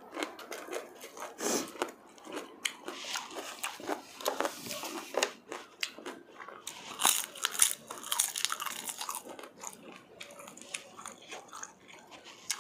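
Close-up eating sounds of a person biting and chewing a crisp green pepper: irregular sharp crunches and wet mouth clicks, loudest about seven seconds in.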